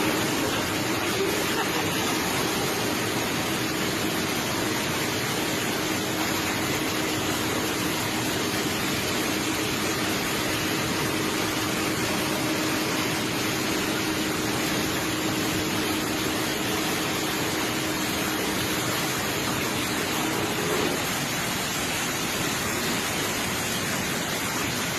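Heavy, steady rush of water released at Tarbela Dam, with a faint steady hum over it that stops near the end.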